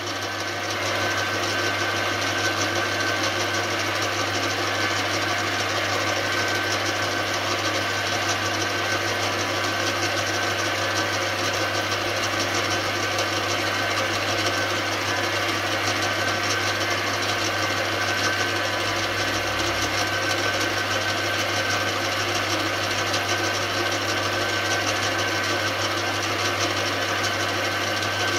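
Metal-turning lathe running steadily at speed, a steady low hum with a higher whine over it, while a very light skim cut is taken off a motorcycle fork cap's preload adjuster to clean up pit marks.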